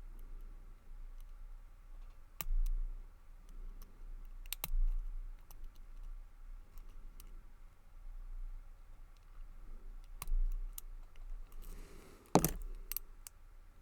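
Lock pick and tension wrench working the pins inside a Lockwood 334B45 brass padlock: scattered small clicks, then a louder clatter of clicks near the end, which the picker takes for all the set pins dropping.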